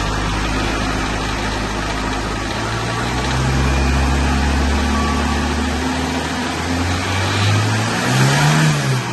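Hindustan Contessa car engine running just after starting, idling steadily with its speed lifting slightly about three seconds in. Near the end it is revved once, the pitch rising and falling back.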